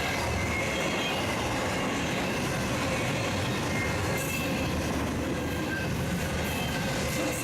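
A freight train's cars rolling past in a steady rumble, with brief faint high squeals from the wheels on the rails.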